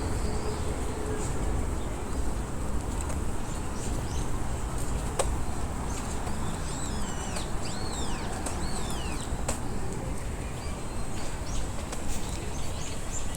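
Birds chirping, with a cluster of short sweeping calls about halfway through, over a steady low background rumble and scattered light clicks.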